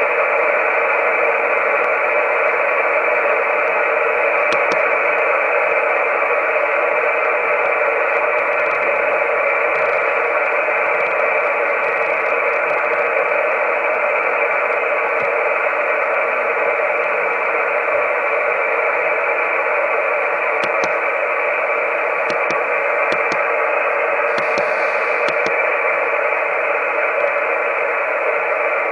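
Amateur radio receiver putting out steady hiss through its speaker, with no signal tuned in. The hiss is held to a narrow voice-width band, with a few faint clicks.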